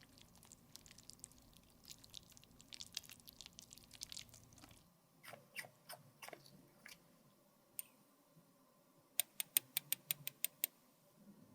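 Close, faint crackling and scraping of makeup being worked by hand, then a few separate clicks and, about nine seconds in, a quick run of about eight sharp clicks.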